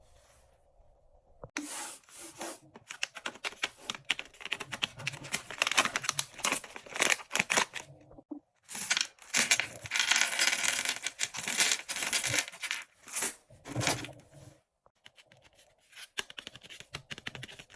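Sweet and candy wrappers being torn open and crinkled, with dense crackling in two long stretches separated by a brief pause, then lighter crinkles near the end.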